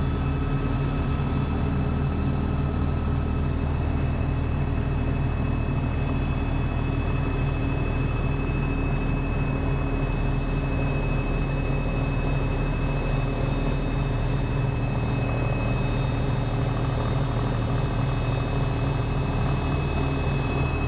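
Helicopter in steady flight: a constant low rotor drone with a thin, steady high whine above it.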